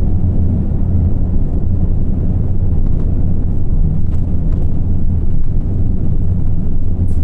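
Isuzu Erga (PKG-LV234L2) city bus diesel engine running under way, a steady low drone held at high revs, with the engine-driven coupling fan engaged.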